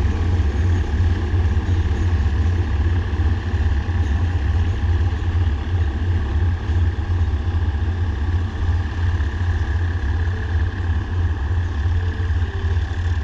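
Diesel-electric locomotive engines, a GE GEK-class unit coupled to an Alsthom unit, running steadily at idle. A deep, even rumble with a faint steady higher hum over it.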